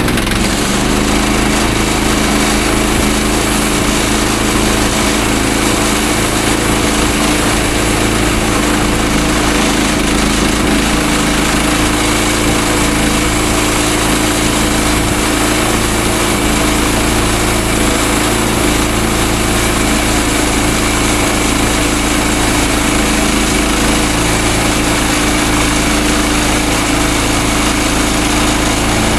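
Small gasoline engine of a manual band sawmill running steadily at speed.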